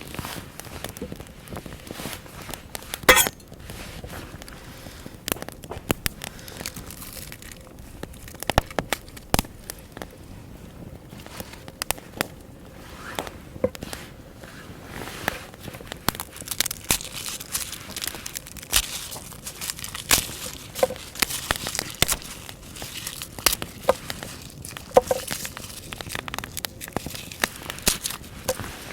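Wood fire crackling with irregular sharp pops, one louder snap about three seconds in.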